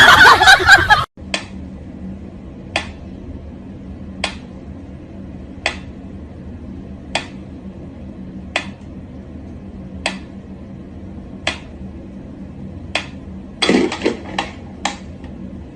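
Sharp single clicks repeating evenly about every second and a half over a steady low hum, with a quick cluster of clicks near the end.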